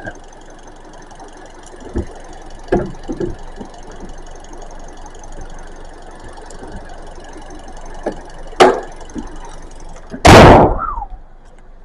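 Kia K4's 2.0-litre four-cylinder engine idling steadily with the hood up, with a few light knocks. Near the end the heavy hood is slammed shut in one loud bang with a brief ring.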